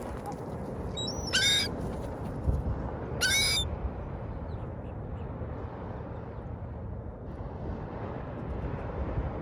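Two short seagull calls, about two seconds apart, over a steady background hiss.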